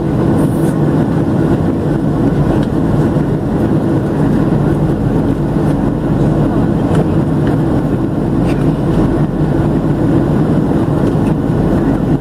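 Steady cabin noise of a Boeing 737-700 in flight: a constant low roar of its CFM56-7B engines and airflow, heard from inside the passenger cabin.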